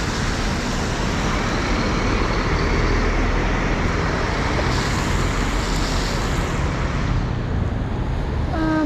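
Road traffic on a wet city street: a steady wash of passing vehicles and tyre noise, easing a little about seven seconds in.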